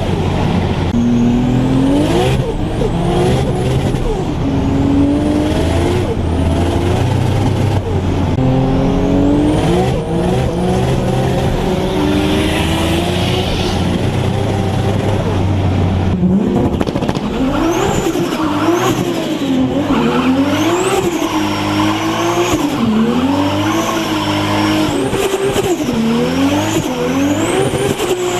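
Turbocharged Toyota Supra engine, first pulling hard with its pitch climbing and dropping through gear changes. About halfway through it is revved up and down repeatedly, with a high turbo whistle rising and falling with the revs.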